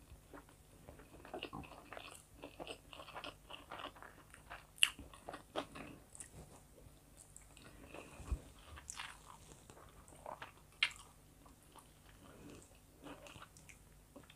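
A person chewing and biting food close to a clip-on microphone, with a steady run of short mouth clicks and a few sharper crunches, the loudest about five and eleven seconds in. A single low knock comes about eight seconds in.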